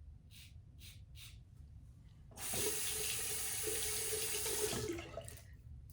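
A few short scrapes of a safety razor across stubble, then a bathroom tap runs into the sink for about two and a half seconds and shuts off.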